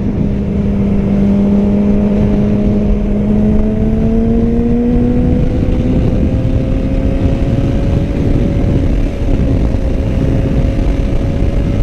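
Yamaha R6 sport bike's inline-four engine running steadily while riding, its pitch creeping slowly upward as it gently gains revs. Wind rushes over the helmet microphone.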